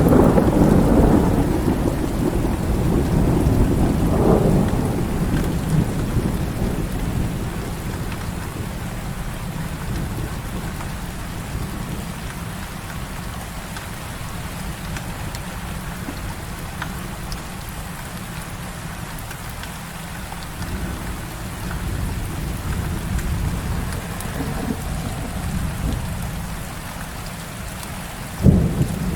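Heavy rain falling steadily with thunder: a loud low rumble at the start fades away over the first few seconds. About a second before the end comes a single sudden loud crack.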